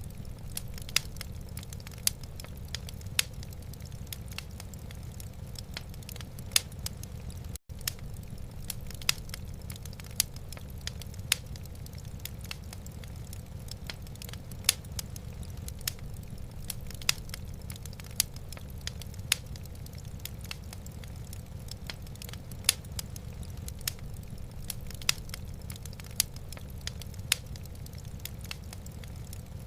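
Wood fire burning in a fireplace: irregular sharp crackles and pops, a few a second, some much louder than the rest, over a steady low rumble.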